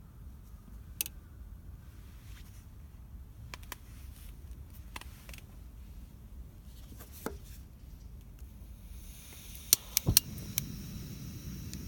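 Wood bonfire crackling: scattered sharp pops over a low steady rumble, with a hiss rising about nine seconds in and three louder pops close together near the end.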